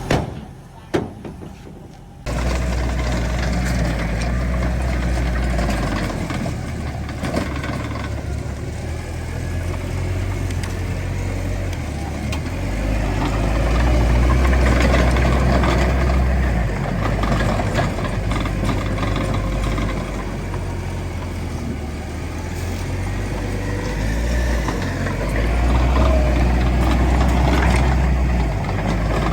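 Heavy diesel engine of earthmoving machinery running steadily with a deep low rumble, swelling louder twice as it works under load. It comes in suddenly about two seconds in, after a quieter moment with a few knocks.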